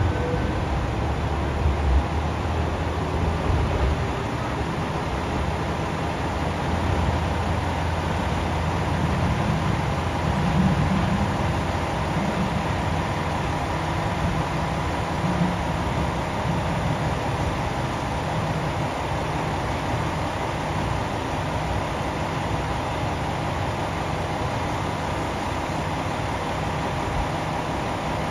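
KiHa 125 diesel railcar running with a steady low engine rumble as it pulls out, swelling slightly about ten seconds in.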